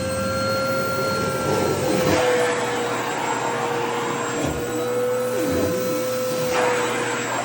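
Vacuum cleaner running with a steady motor whine over the rush of its airflow, the noise surging briefly a few times as the suction pulls at fabric.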